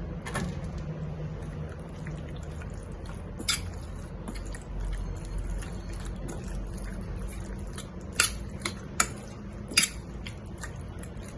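Marinated chicken pieces being mixed with cornstarch in a bowl: a soft wet squishing, with a few sharp clicks and knocks against the bowl.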